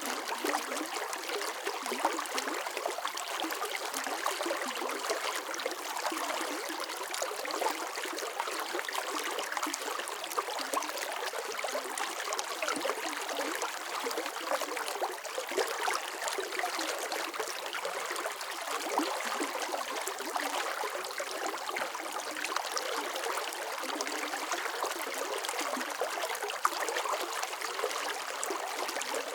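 Water flowing and trickling steadily, a continuous splashy babble like a small stream, with no low rumble.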